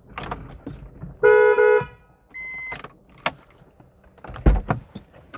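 Sounds of getting out of a car: clicks of the door and handle, a loud short double honk of the car horn, a brief electronic beep, then a heavy thud about four and a half seconds in, like the car door shutting.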